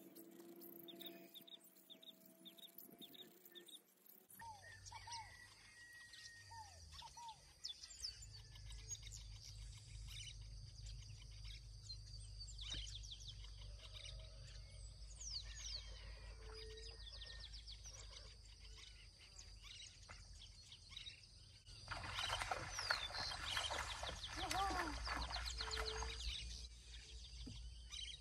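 Wild birds chirping and calling, many short repeated notes, over a faint steady low rumble; the calls grow louder and denser for a few seconds about two-thirds of the way through.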